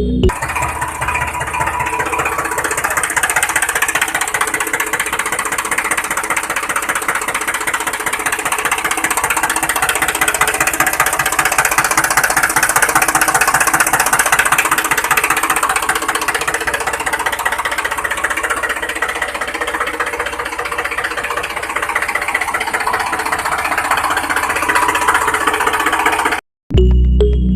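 Tractor engine running steadily with a fast, even rattling knock. It cuts off abruptly near the end.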